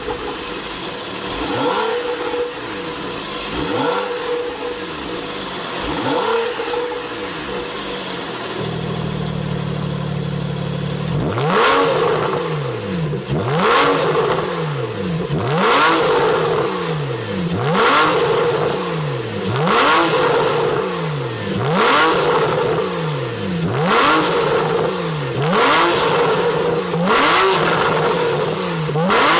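Porsche 911 (991) flat-six engine through a Capristo valved aftermarket exhaust, blipped repeatedly from idle. There are lighter revs at first, a few seconds of steady idle, then louder rev blips about every two seconds, each rising quickly and falling back.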